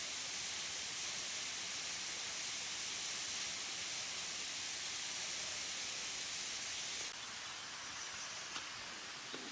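Steady, even hiss of outdoor forest ambience with a faint high steady whine in it. It drops slightly in level and changes character about seven seconds in.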